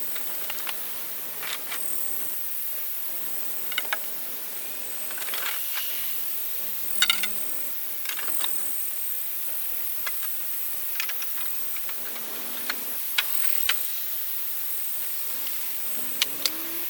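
Steady high-pitched insect buzz, cicadas or crickets, with scattered sharp clicks and snaps.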